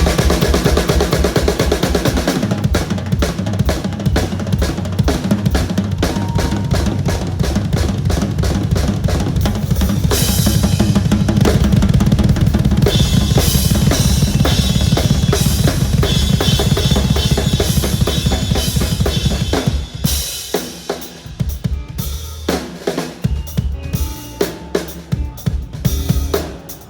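Drum-kit solo on a Gretsch kit with Zildjian cymbals: fast, dense bass-drum and snare strokes, with cymbals crashing in about ten seconds in. About twenty seconds in it thins out to sparser, separate hits.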